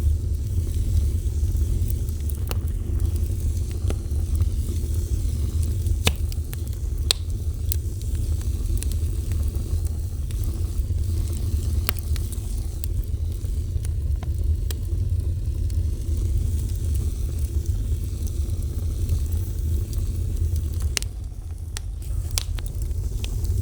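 Wood fire burning with a steady low rumble and sharp crackles and pops every second or so.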